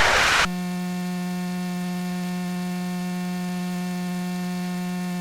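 Steady electrical hum with a row of evenly spaced overtones, unchanging in pitch and level throughout.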